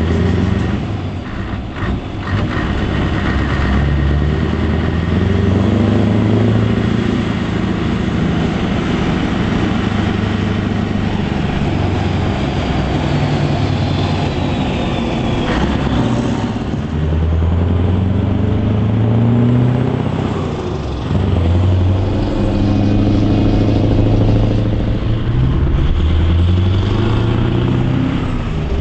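Scania R500 truck's V8 diesel engine running under load, repeatedly climbing in pitch and dropping back as it revs up.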